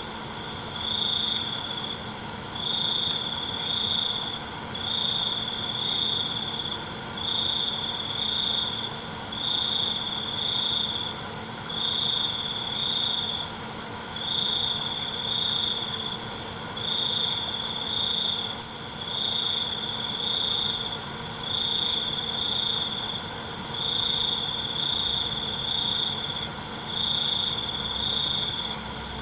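Crickets chirping at night. One loud cricket trills in phrases of about a second and a half, with short pauses between them, over a steady high-pitched chorus of other insects. A couple of sharp clicks come about two-thirds of the way through.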